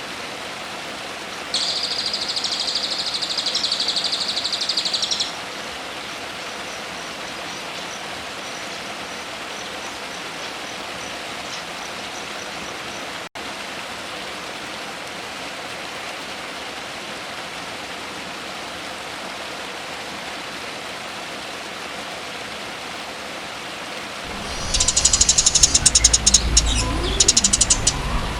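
Songbird song over a steady hiss: a high, dense burst of song lasting about four seconds near the start, then only the hiss with faint ticks, and loud, rapid, high-pitched chattering calls starting near the end.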